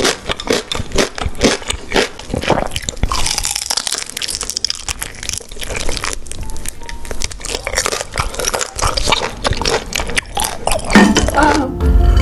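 Mouth sounds of someone eating beef large intestines: quick crunching bites and wet chewing, heard close up. Music comes in about a second before the end.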